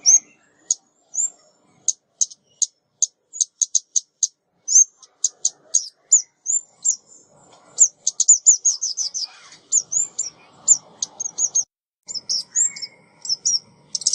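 Female ốc mít, a small songbird, calling: a quick, uneven series of short, high, sharp chips and little chirps, bunching into fast twittering runs about eight seconds in and near the end. It is a recorded female call of the kind played as a lure for trapping.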